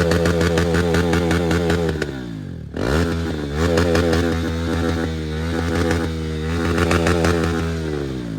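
Motorcycle engine revved hard and held at high revs, dropping briefly about three seconds in before revving up again.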